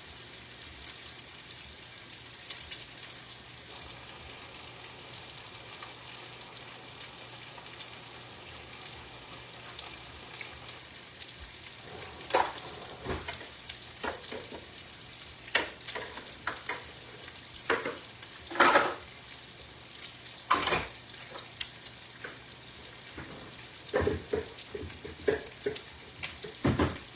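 Food sizzling steadily in a frying pan as it browns. From about twelve seconds in, irregular knocks and short rustles of kitchen handling break in, a few of them loud.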